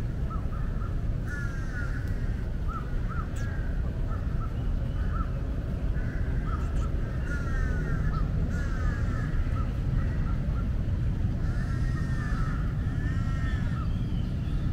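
Birds calling in the background: a series of short chirps and, three times, a run of harsher descending calls, over a steady low rumble.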